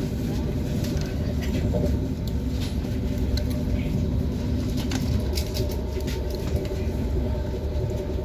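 ES1P Lastochka electric train running at speed: a steady rumble of wheels on rail with a constant hum and scattered light clicks and rattles.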